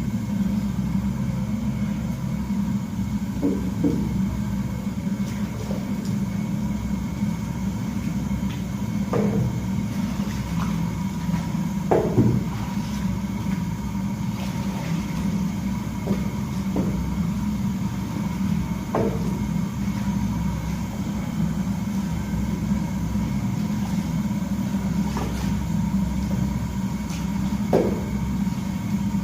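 An electric motor running steadily with a low hum, with a few light knocks scattered through, the loudest about twelve seconds in.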